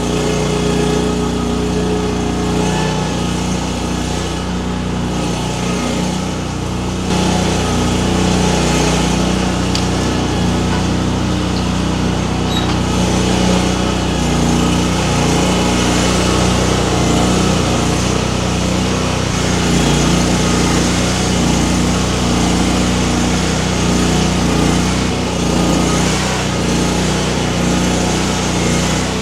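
Baumalight mini skid steer's engine running steadily under working load, with the grapple at work; it gets louder about seven seconds in.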